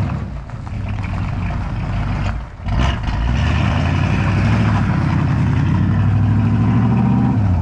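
Truck engine running, dipping briefly about two and a half seconds in, then pulling steadily and a little louder.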